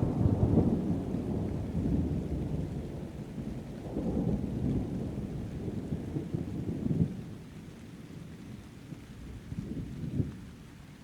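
Thunder rumbling during a rainstorm: a loud rolling peal at the start swells again about four seconds in, then fades into a quieter grumble over steady rain.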